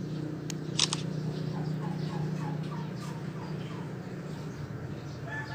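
A bird calling in the background: a run of short falling notes, about three a second, then a longer held call near the end. A faint click comes about half a second in.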